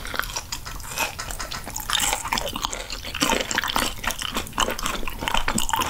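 Close-miked chewing of raw sturgeon belly sashimi: many soft, wet mouth clicks and smacks in quick succession.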